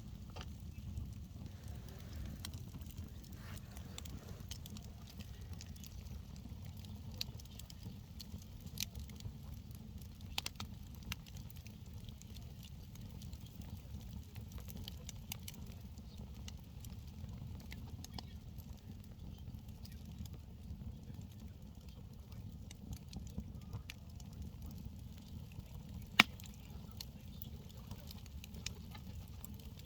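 Campfire crackling, with scattered small pops and one sharp, much louder pop near the end, over a steady low rumble.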